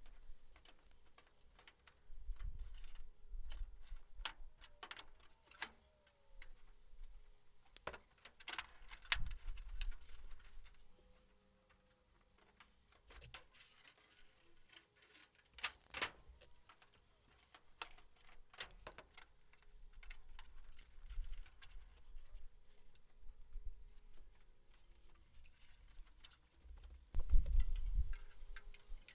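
Irregular light metal clicks and taps with bouts of low handling thumps: a bent aluminium angle being handled and worked by hand at the bench.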